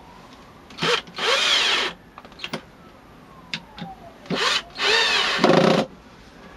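Cordless drill driving screws into oak through pilot holes: two short runs, each speeding up and then slowing, with small knocks in between.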